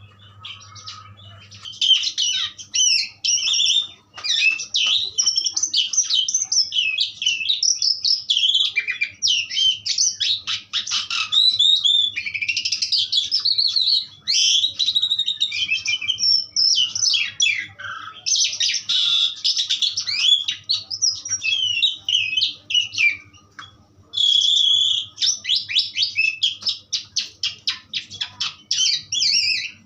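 Asian pied starling (jalak suren) singing a long, varied song of chattering and whistled phrases that hardly pauses. It starts about two seconds in and ends with a fast run of repeated notes.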